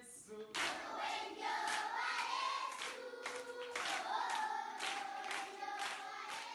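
A group of voices singing held notes together over steady hand claps, about three claps a second.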